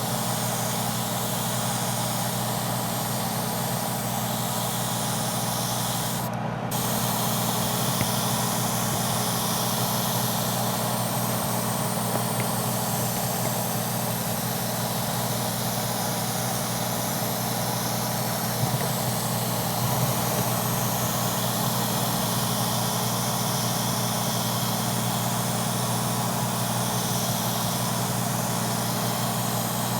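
Airbrush spraying hull paint: a steady hiss of air and paint over a low, steady machine hum. The hiss cuts out briefly about six seconds in.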